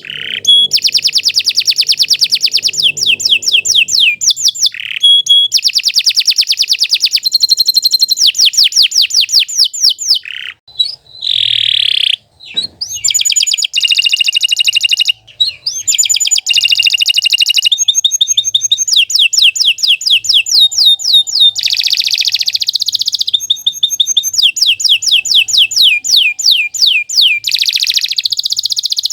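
Domestic canary singing a long, continuous song of fast trills, one rapid phrase after another, with a short broken stretch about ten to thirteen seconds in.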